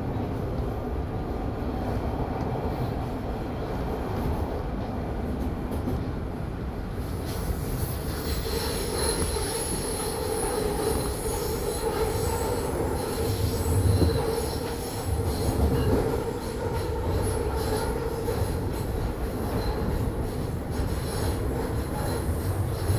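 Toronto subway Line 1 train running through the tunnel, heard from inside the car as a steady rumble. About seven seconds in a high wheel squeal joins it and carries on, and the rumble swells briefly twice near the middle.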